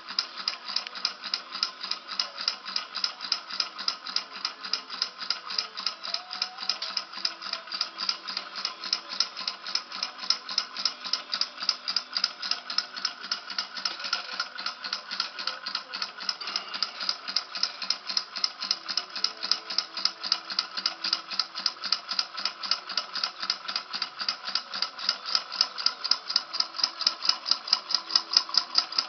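Small model Stirling engine running, its mechanism rattling in a steady, even rhythm of several clicks a second that grows a little louder near the end.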